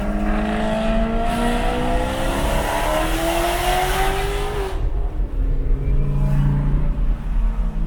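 Sports car engine accelerating hard, its pitch climbing steadily for about four and a half seconds before the throttle lifts and the loud part cuts off abruptly. A lower, quieter engine sound follows.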